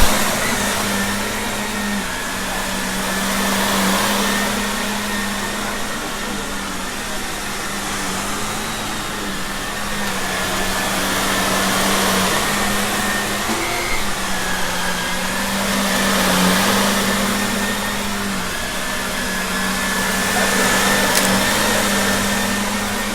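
Shark vacuum cleaner running steadily, a constant motor hum under a dense rush of air that swells and eases every few seconds. A sharp knock comes right at the start, and a few small ticks come about halfway through.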